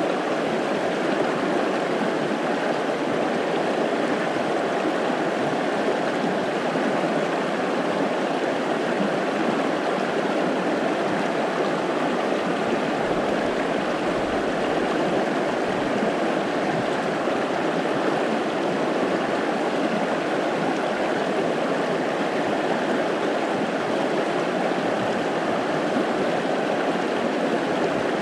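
Fast-flowing brook rushing over rocks, a steady, even wash of water noise with no breaks.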